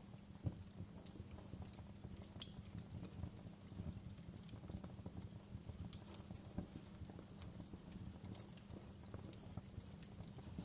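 Wood fire in a fireplace crackling: a dense, irregular run of small pops with a few sharper snaps, the loudest about two and a half seconds in.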